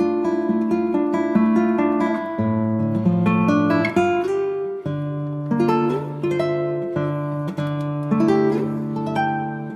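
Background music: acoustic guitar picking steady arpeggiated chords.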